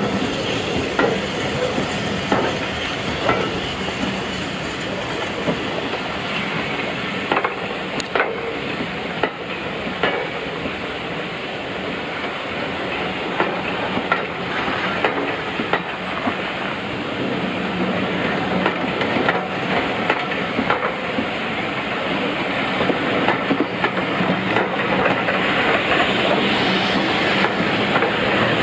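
Steam-hauled passenger coaches rolling slowly past, their wheels clicking irregularly over the rail joints. A hiss of steam from the train grows louder near the end.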